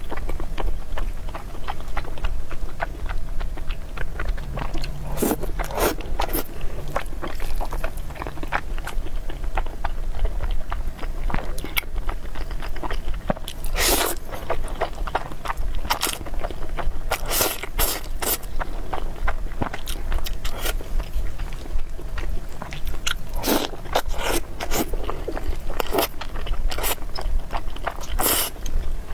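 Close-miked mukbang eating sounds: a person chewing noodles and meatballs, with scattered sharp clicks and crunches, over a steady low hum.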